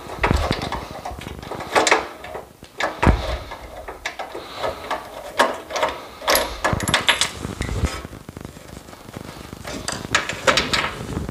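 Irregular metal knocks, clicks and clanks of a wrench and spark plug socket being worked on a snowblower engine's spark plug to loosen and remove it.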